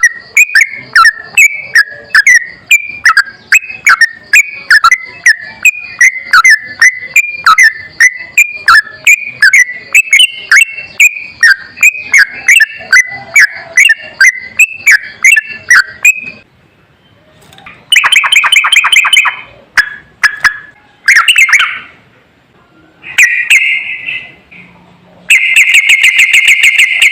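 Yellow-vented bulbul song from a bird-training master recording: a fast run of sharp, repeated chirps, about three a second, for a little over half the time. Then four short rapid trilled phrases follow, separated by pauses.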